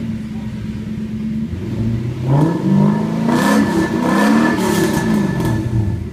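Toyota 1UZ-FE V8 of a Cresta UZX71, breathing through an exhaust fitted with a Helmholtz resonator, idling and then revved up. It holds high revs for a couple of seconds, then falls back to idle near the end.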